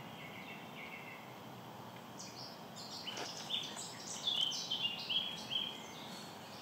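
Woodland birdsong: a songbird sings a run of short high notes in quick succession, starting about two seconds in, over a faint steady background hiss.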